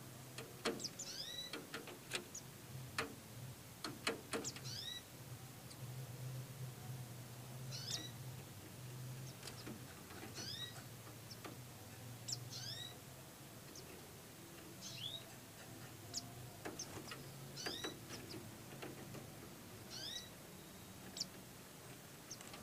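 White-eye (pleci) nestlings cheeping: short, thin, high calls, each falling in pitch, coming in twos and threes every second or two. A few sharp clicks in the first five seconds and a steady low hum sit underneath.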